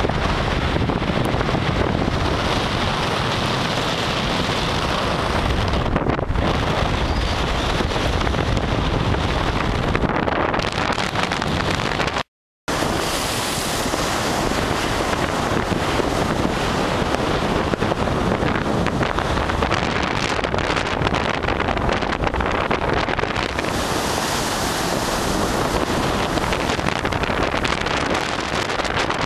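Strong wind buffeting the microphone over waves breaking on a beach, a steady dense rush. The sound cuts out completely for a moment near the middle, then the same wind and surf carry on.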